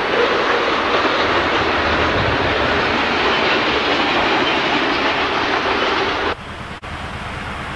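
Freight train tank cars and boxcars rolling past, a steady rumble of wheels on rail with clickety-clack. It cuts off abruptly near the end, and a sharp click is followed by quieter steady noise.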